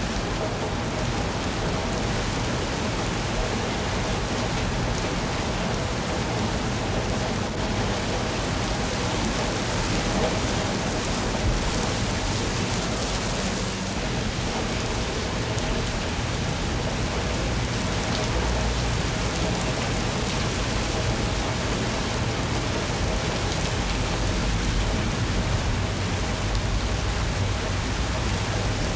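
Steady rain falling and pattering on surfaces, a continuous even hiss.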